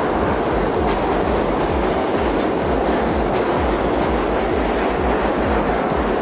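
New York City subway train running along the station platform, its wheels clacking over the rail joints in a steady loud rumble.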